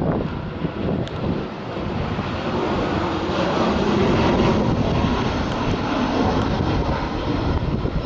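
Low-flying US military aircraft passing overhead, its engine noise building to its loudest around the middle and then easing a little.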